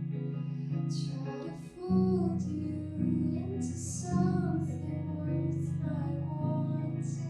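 Solo singer singing a slow song over guitar accompaniment, the guitar's low notes shifting about two seconds in and again near the end.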